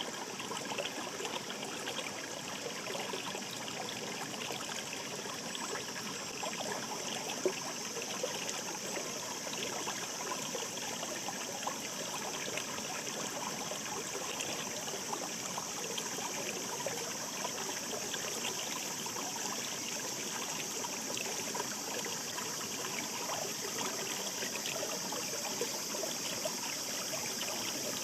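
Shallow stream babbling steadily, with many small trickles and splashes.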